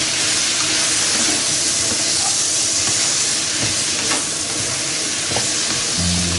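Pork, shrimp and squash frying in a hot pan: a steady sizzling hiss, with a few light clicks from stirring.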